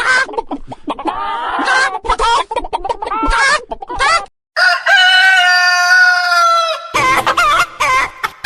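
Chickens clucking in quick, choppy calls, then a brief silence and one long rooster crow of about two seconds, followed by more clucking.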